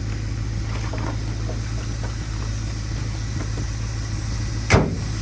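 A vehicle engine idling with a steady low hum, and one sharp bang near the end.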